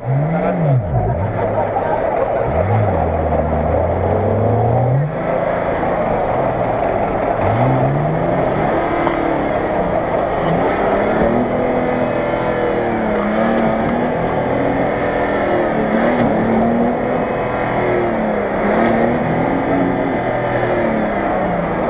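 Engine of an off-road SUV stuck in deep mud, revving up and down repeatedly: a long rise in pitch in the first few seconds, then quick throttle blips about once a second through the second half.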